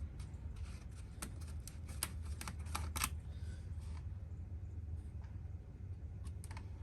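Light clicks and taps of small metal parts being handled as a new oil filter is fitted to the generator: about a dozen in the first three seconds, then two more near the end, over a low steady hum.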